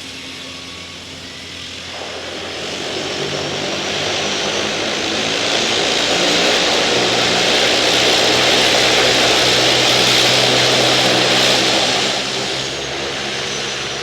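Single-turboprop Cessna Caravan floatplane's engine and propeller passing, growing louder from about two seconds in, loudest through the middle, then easing off near the end. A high turbine whine runs over the propeller noise and drops in pitch as the plane goes by.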